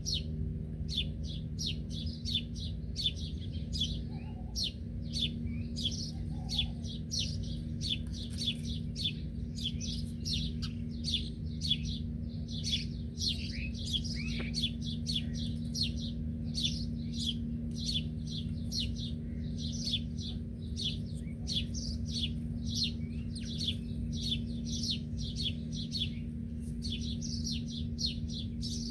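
A flock of small birds chirping rapidly and without pause, several short high notes a second, over a steady low hum.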